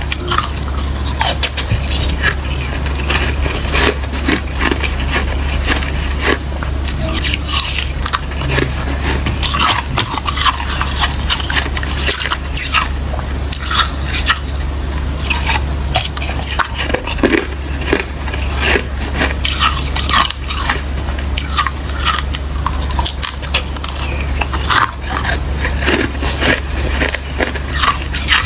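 Close-miked biting and chewing of watery, slushy ice: repeated wet crunches and crackles, one after another.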